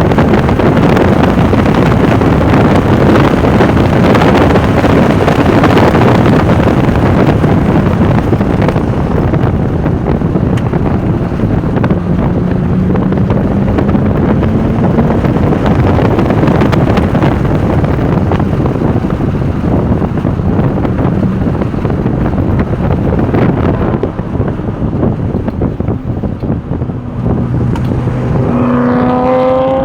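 Porsche 996 Turbo's twin-turbo flat-six pulling hard at track speed, under heavy wind and road noise. The engine note climbs once in the middle. It drops back for a few seconds, then rises again near the end as the car accelerates.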